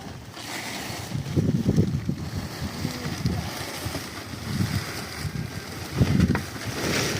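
Wind buffeting the microphone in irregular low rumbling gusts, over a steady hiss.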